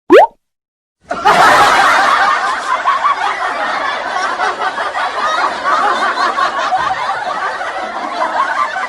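A very short rising whistle-like glide, then after a second's pause a crowd laughing continuously, like a sitcom laugh track.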